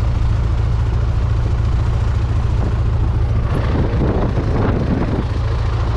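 A Cessna 172's four-cylinder piston engine and propeller give a steady drone, heard from inside the cockpit. A short stretch of rougher noise cuts in a little past halfway.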